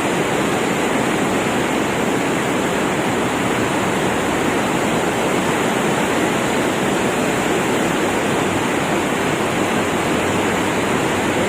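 A river swollen with rainwater, its fast floodwater rushing in a steady, unbroken roar.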